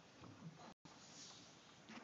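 Faint sounds from a litter of three-week-old puppies: short low noises and shuffling, with the recording cutting out briefly a little under a second in.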